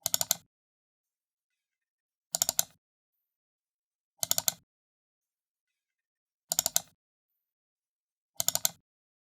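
Computer mouse button double-clicked five times, about two seconds apart; each double-click is a quick run of sharp plastic clicks as the button is pressed and released twice.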